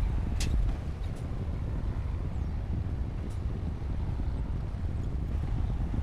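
Komatsu D60P bulldozer's diesel engine running with a steady deep rumble, with a few short sharp metallic clinks, about half a second in and again near three seconds.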